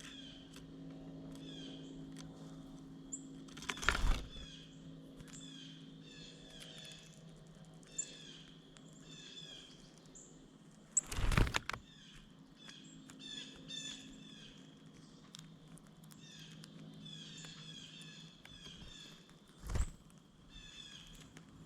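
Small birds chirping over and over in short quick notes, with three loud thuds or flutters close to the microphone: about four seconds in, a longer one around eleven seconds, and another near the end. A faint low hum sits underneath for the first half.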